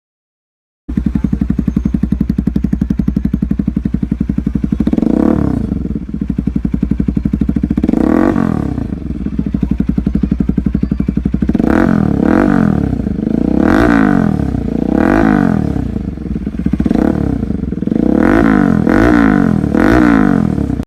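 Bajaj Pulsar NS200's single-cylinder engine running through an aftermarket exhaust: it idles with a fast, even pulse and is revved twice. Then it is blipped again and again, about eight quick revs, each rising and falling back.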